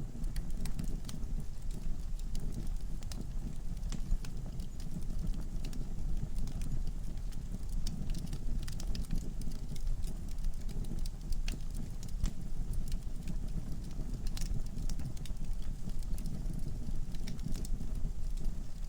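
Wood fire burning in a fireplace: a steady low rush of flame with many sharp crackles and pops from the logs, coming at irregular intervals.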